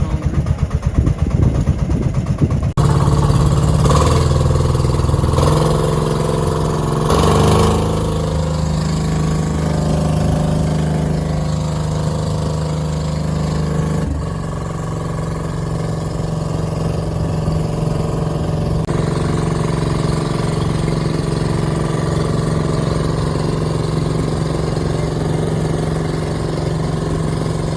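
Boat engine running steadily, its note shifting slightly about halfway through.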